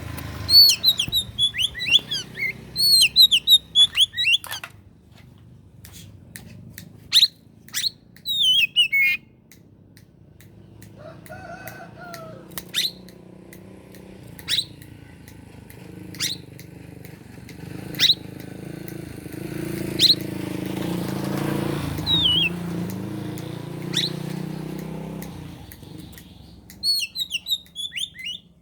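Oriental magpie-robin (kacer) singing: quick, varied warbling phrases at the start and again near the end. Between them come single sharp whistled notes, each sliding downward, repeated every second or two. A low rumble swells and fades under the song in the second half.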